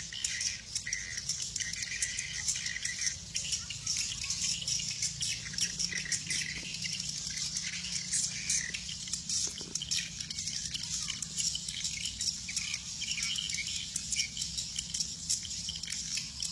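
A dense flock of swiftlets twittering and chirping without pause, many high rapid calls overlapping, over a steady low hum.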